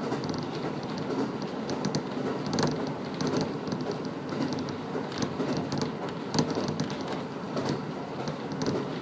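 KiHa 54 diesel railcar running along the line, heard from inside the car: a steady rumble of engine and wheels on the rails, with frequent small irregular clicks and rattles.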